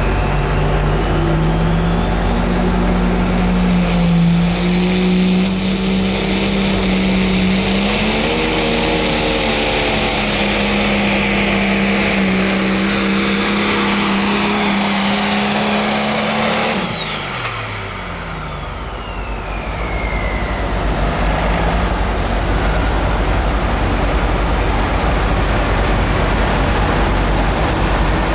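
Turbocharged diesel Pro Stock pulling tractor under full load, engine pitch climbing over the first several seconds and then holding steady with a high turbo whistle above it. About 17 seconds in the engine shuts down: the pitch drops and the turbo whine winds down, leaving a steady loud noise.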